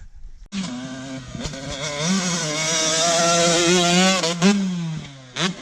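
Dirt bike engine revving hard as the rider accelerates, its pitch climbing and holding high with some wavering, then dropping away about five seconds in. A sharp knock sounds about four and a half seconds in.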